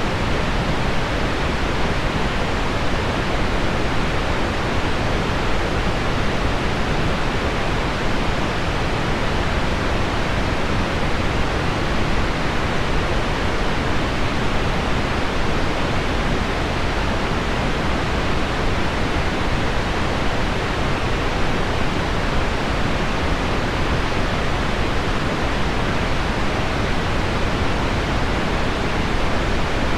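Steady, unbroken pink noise with heavy rain on window glass mixed in, an even hiss that never changes in level.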